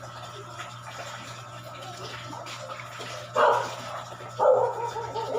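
Two loud animal calls over a steady low hum: a short one about three seconds in, and a longer, drawn-out one a second later.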